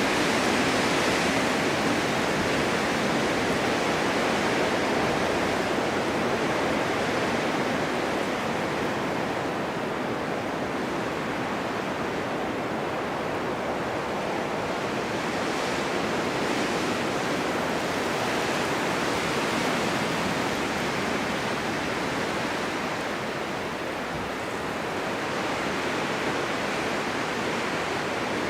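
Blizzard wind blowing snow in a steady rushing noise that swells and eases slowly over several seconds.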